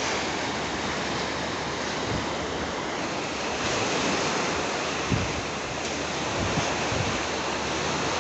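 Steady rush of strong wind and open water, with the wind buffeting the microphone in a couple of brief low gusts.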